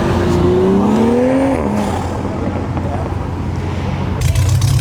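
A car engine accelerating, its pitch rising for nearly two seconds and then dropping away. A steady low engine rumble follows and gets louder near the end.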